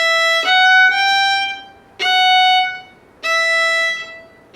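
A solo violin playing four bowed melody notes high on the E string: two joined notes, then two shorter notes, each after a brief pause.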